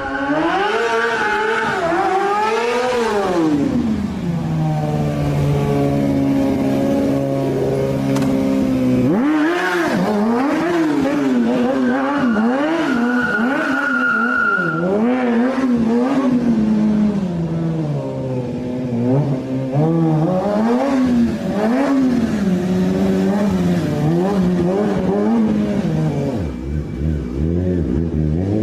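Kawasaki ZX-10R inline-four sportbike engine revving up and down again and again, with a brief high squeal about halfway through.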